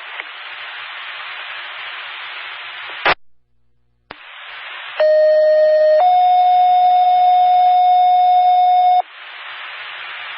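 Radio scanner channel hissing, cut by a squelch click about three seconds in, then a two-tone sequential pager tone-out: a one-second tone followed by a slightly higher tone held about three seconds. This is the dispatcher's alert that pages an EMS crew to respond.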